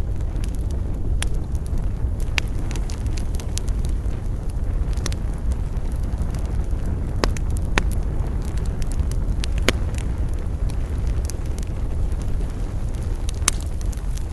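Wood campfire burning: a steady low rumble of flame with irregular crackles and pops from the burning wood, several sharper snaps standing out.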